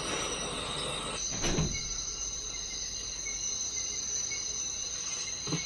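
Steady insect chorus, with high, even buzzing tones, from a jungle camera-trap recording. A brief thump about a second and a half in and another near the end.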